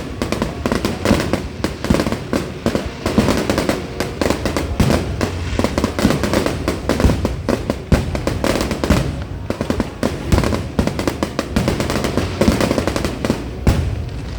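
Fireworks going off in a rapid, continuous barrage of overlapping bangs and crackles, with music playing underneath.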